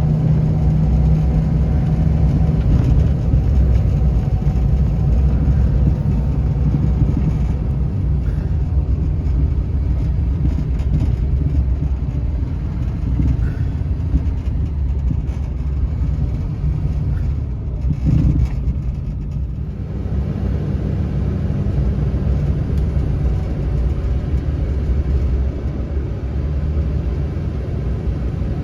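2009 Duramax 6.6-litre V8 turbo-diesel pickup driving along a snowy road: a steady low rumble of engine and tyre noise that eases briefly about two-thirds of the way through.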